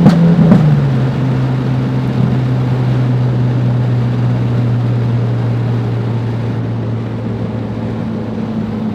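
Tuned Ford Focus RS's turbocharged four-cylinder coming off a hard pull: a couple of sharp exhaust pops from its pop-and-bang tune right at the start as the revs fall. The engine then settles into a steady drone at lower revs.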